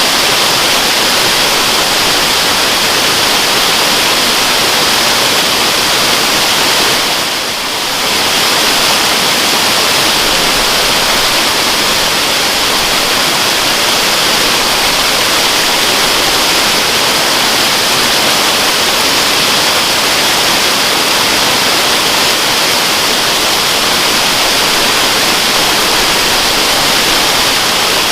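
Waterfall: a steady rush of falling water, with a brief dip in level about seven seconds in.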